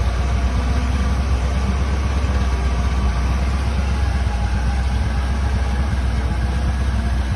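Car engine idling steadily with a loud, even low rumble.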